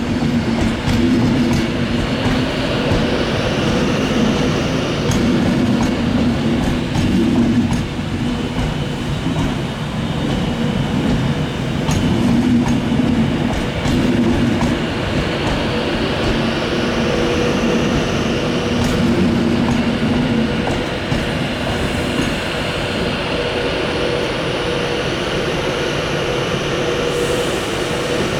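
Avanti West Coast Class 390 Pendolino electric train running, with a steady electric hum carrying several held tones and scattered sharp clicks. A higher hiss swells and fades twice.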